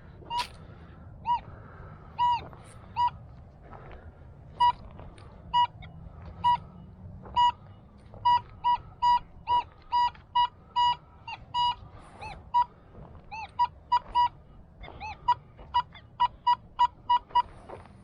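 Metal detector giving short beeps at one pitch as the coil sweeps the ground, signalling buried metal targets. The beeps are scattered at first and come in quick runs from about halfway through and again near the end.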